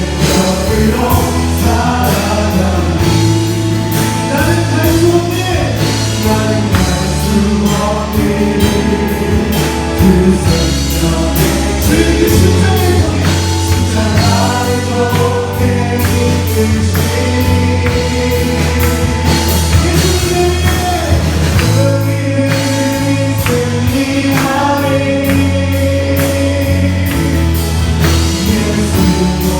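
A youth praise team singing a worship song as a group, with band accompaniment: a steady beat and a sustained bass line under the voices.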